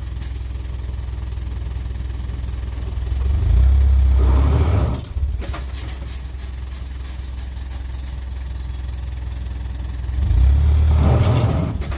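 Tipper truck's diesel engine idling, revved hard twice for a couple of seconds each: the truck is stuck and trying to drive free.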